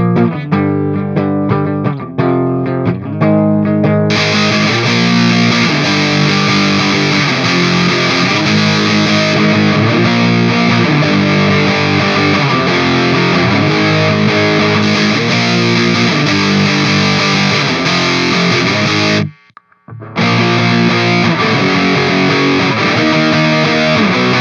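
Electric guitar played through a distortion pedal. A few separately picked notes open it, then from about four seconds in comes a steady, heavily distorted riff, which cuts out briefly about nineteen seconds in before starting again.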